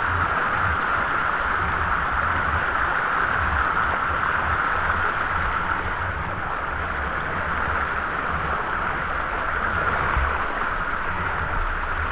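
A waterfall's falling water, a steady, even rush without a break.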